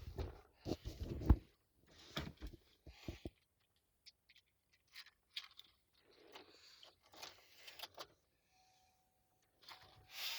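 Car keys jangling amid handling noises, with several thumps in the first second and a half, the loudest just over a second in. A faint steady tone sets in near the end.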